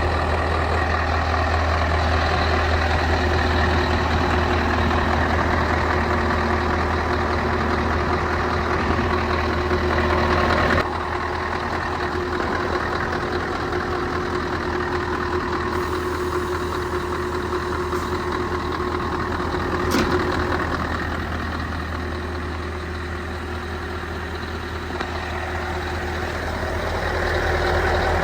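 Scania R 500's V8 diesel engine idling steadily, a deep even rumble; its level drops suddenly about eleven seconds in, and there is a single click near twenty seconds.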